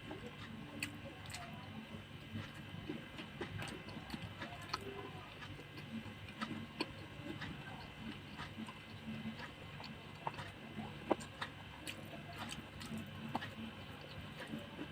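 Faint eating sounds: quiet chewing of a pastel pastry with irregular soft mouth clicks and smacks, a few a second, over a faint steady hum.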